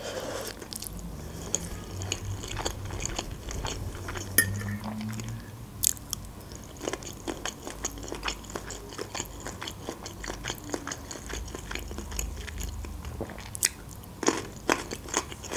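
A person chewing a mouthful of shrimp pasta, giving a steady run of small mouth clicks. A few sharper clicks come about six seconds in and near the end.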